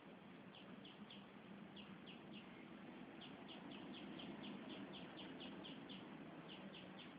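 Faint bird chirping: short high notes, each sliding down in pitch, come in quick groups of three early on and then in a longer run of a dozen or so from about three seconds in, over a low steady hum.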